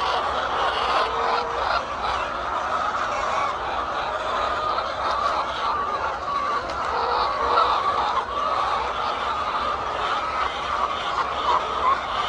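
A large flock of laying hens clucking and calling all at once, many overlapping voices in a steady, unbroken din.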